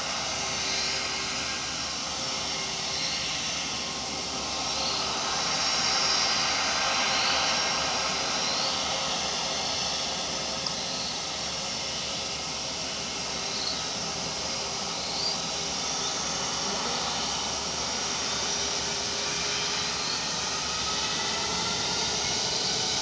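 Aircraft flying overhead: a steady engine roar that swells and eases a little.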